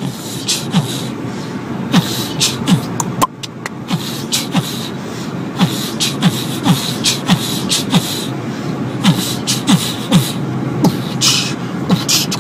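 A man beatboxing a steady beat, with kick-drum thumps and hissing snare and hi-hat sounds about two a second, over the steady low hum of a moving vehicle.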